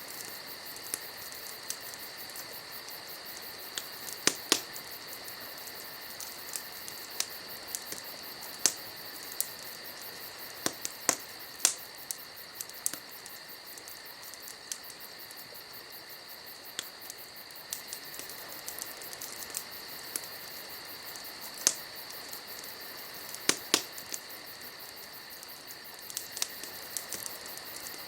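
Campfire crackling, with irregular sharp pops and snaps, a few of them louder, over a steady high trilling of insects.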